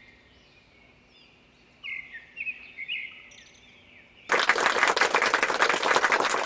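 Birds chirping faintly, then about four seconds in a burst of applause, many hands clapping, starts and is the loudest sound.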